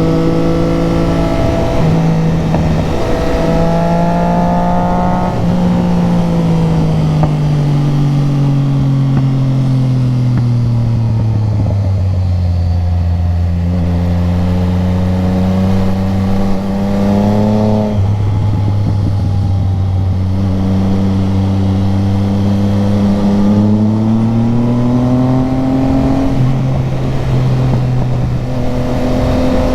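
Motorcycle engine heard from on board while riding, with wind rush: the engine pitch sinks slowly for several seconds as the bike slows, then climbs as it accelerates, drops suddenly at an upshift about two thirds through, and climbs again.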